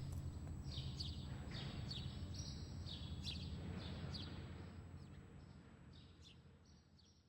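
Small birds chirping in quick short calls over a low steady outdoor background noise, the whole fading out over the last couple of seconds.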